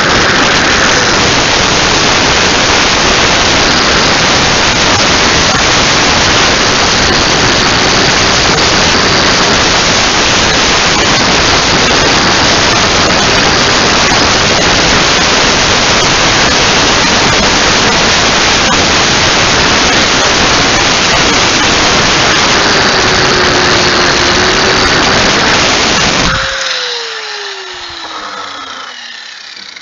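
Power grinder running, a loud steady grinding noise. About 26 seconds in it is switched off, and its whine falls away as the disc spins down.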